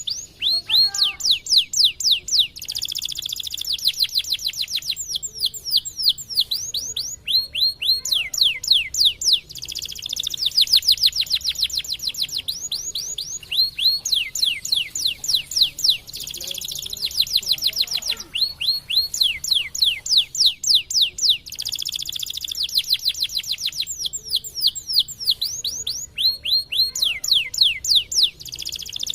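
Domestic canary singing a continuous song. Fast runs of repeated, quick sweeping notes alternate every few seconds with dense, buzzy rolled trills.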